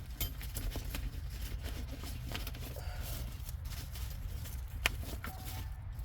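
Scattered light clicks and clinks of small objects being handled, with one sharper click about five seconds in, over a steady low hum.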